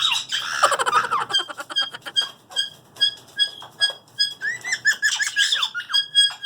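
Pet parrots calling: a loud harsh squawk at the start, then a run of short, repeated high whistled notes and quick chirps.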